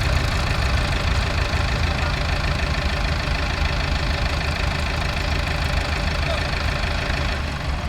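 Heavy diesel machinery engine running steadily at a low, even pace.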